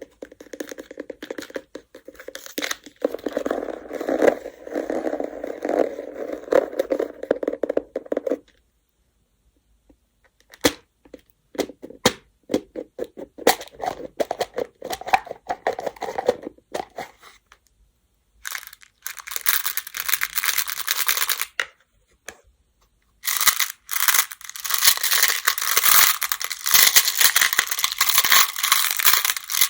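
Baduk (Go) stones clattering and rattling against each other, in bursts of rapid clicks broken by short pauses. The last stretch is a dense, bright rattle.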